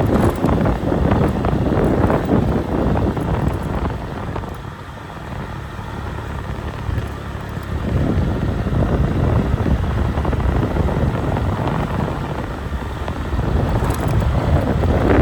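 Wind buffeting the microphone: a loud, uneven low rumble that eases off for a few seconds partway through, then picks up again.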